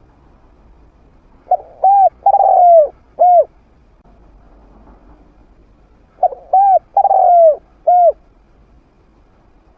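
Spotted dove cooing in two phrases, each of four coos in a short-short-long-short pattern, about four and a half seconds apart.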